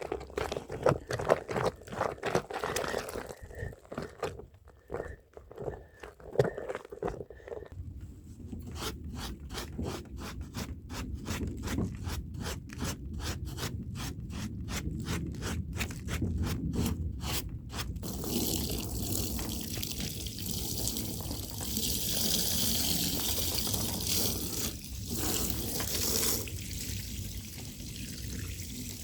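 A scrubbing brush worked by hand over a wet rug in quick, even strokes, about three a second, then a steady hiss of water running over it from about two-thirds of the way in, as it is rinsed.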